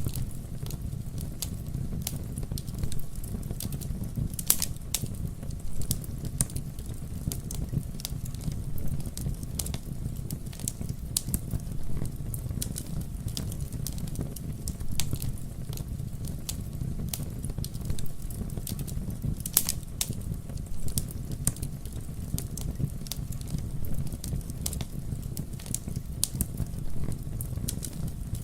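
Wood fire burning, crackling with frequent small snaps and an occasional louder pop over a steady low rumble of the flames.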